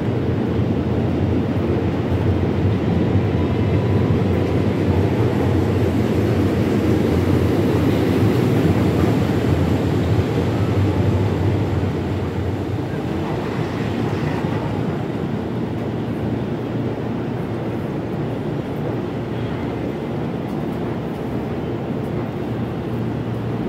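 Steady low rumble of an electric commuter train at a station platform, a little louder in the first half and easing off slightly about halfway through.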